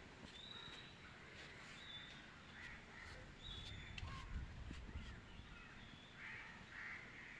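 Faint bird calls: a few short high chirps repeated every second or so over a quiet background.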